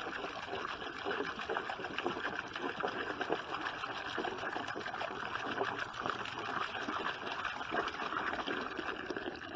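Water pouring steadily into a chicken waterer, filling it, and stopping near the end.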